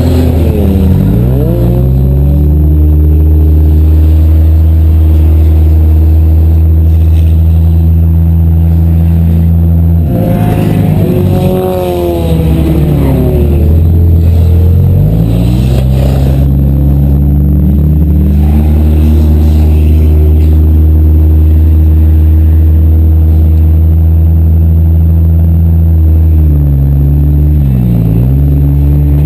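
Demolition derby car engines running loud and steady, revving up and down a few times.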